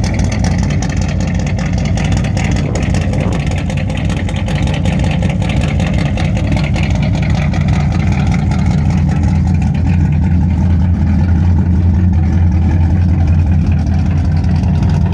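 1973 Pontiac Trans Am's V8 engine running steadily with an aftermarket Pontiac camshaft, getting a little louder in the second half.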